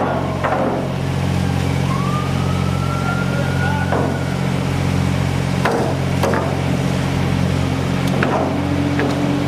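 An engine running steadily under a low hum, with several irregular sharp knocks and a whine that rises and then holds for about two seconds.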